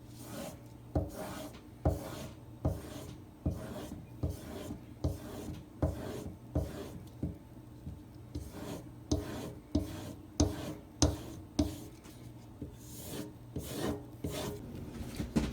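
Benchmade 970S Emerson CQC7 blade being stropped on a leather strop loaded with white compound: a regular run of short scraping strokes, roughly one a second, each ending with a light thud.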